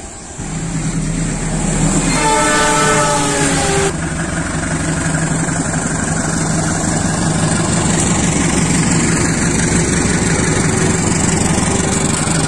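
KAI CC 203 diesel-electric locomotive passing close by with its engine running and wheels on the rails; its horn sounds once for about two seconds, starting about two seconds in and falling slightly in pitch.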